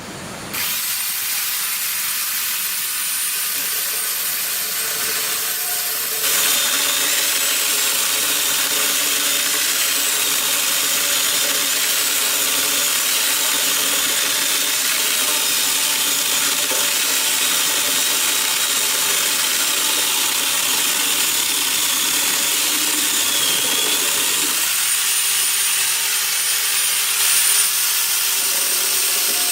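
A power tool running steadily on wood, with a high whine; it gets louder about six seconds in.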